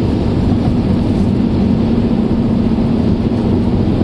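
Car driving, heard from inside the cabin: a steady rush of engine and road noise with a low, even hum.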